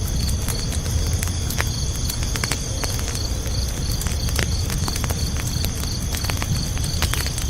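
Crickets chirping in a steady, even rhythm of about three chirps a second over a crackling wood campfire, whose sharp pops and snaps come at irregular moments above a low, steady rumble of the burning fire.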